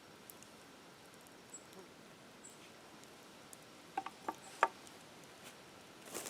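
A few sharp, lightly ringing clicks about four seconds in, over a faint steady background.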